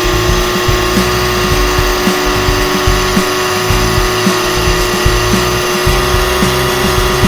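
Off-road vehicle engine held at high revs, running at a steady, unchanging high pitch, with choppy rumble underneath.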